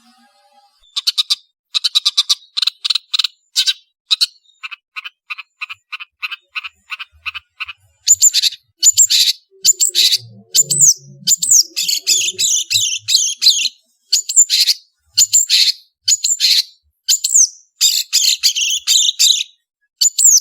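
Long-tailed shrike (cendet) singing: a fast run of short repeated chattering notes, then louder harsh, scratchy phrases broken by quick high whistles from about eight seconds in.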